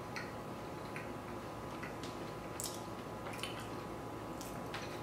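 A person chewing a mouthful of deep-fried, beer-battered chicken pot pie with the mouth closed: faint irregular clicks, about one or two a second, over a faint steady hum.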